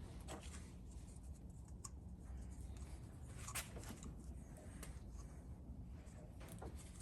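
Faint handling of small pipe fittings: a few light clicks and rustles over a low steady hum.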